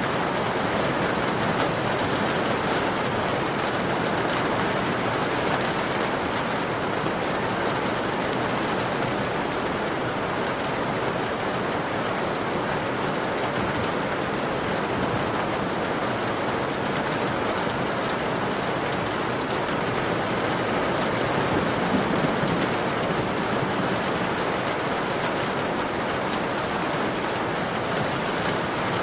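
Steady rain falling on a window, an even, unbroken patter.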